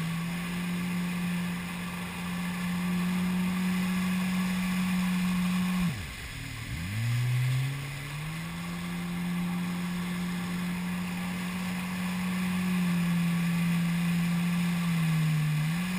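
Jet ski engine running at a steady speed. About six seconds in its note drops sharply as the throttle is let off, then climbs back up over the next two seconds as the throttle is opened again.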